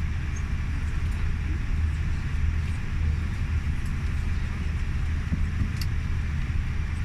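Steady cabin noise inside a Boeing 787 Dreamliner: a constant low hum with an even air hiss, with a few faint clicks.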